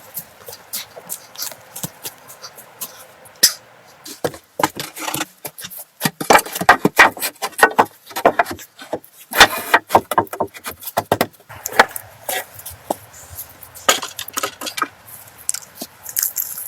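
A run of sharp, irregular knocks and clicks, some coming in quick clusters, with short gaps between them.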